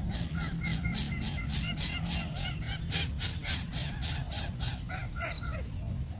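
Baby bird chirping in a fast, even run of short sharp calls, about four a second, that stop about five seconds in, over a steady low rumble.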